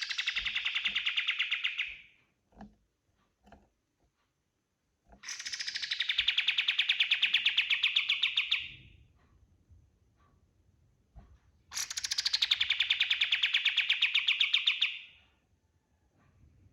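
Kapas tembak songbird singing: three long, fast trilling bursts of about three seconds each, with pauses of a few seconds between them.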